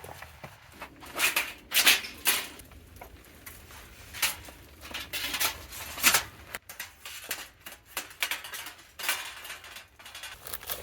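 Cooking utensils and pots being handled, with irregular clinks and knocks of metal and dishware while a stew is prepared.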